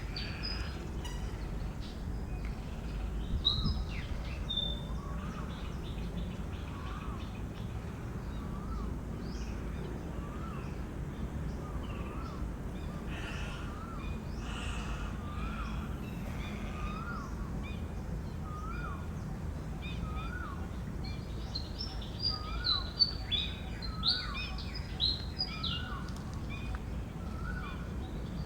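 Wild birds calling over a steady low background rumble. One bird repeats a short call about once a second, and bursts of higher, sharper chirps come near the start and again near the end, where they are the loudest sounds.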